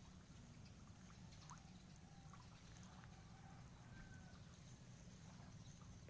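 Near silence: a faint low rumble with a few faint, brief chirps of distant birds, one about 1.5 s in and another about 4 s in.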